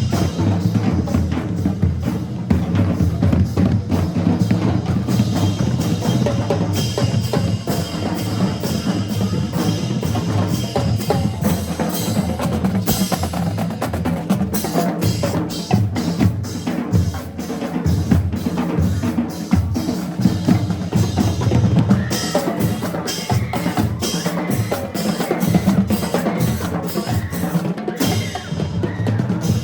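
Marching band drumline playing a cadence: snare and bass drums beating a steady, driving rhythm.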